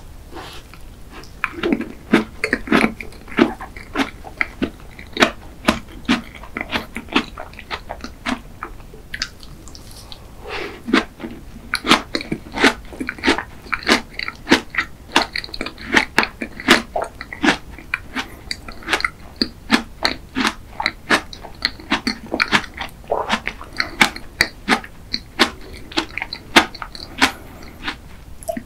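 Close-miked chewing of a cream-filled dessert: a steady run of short, crisp mouth clicks and crunches at an irregular pace.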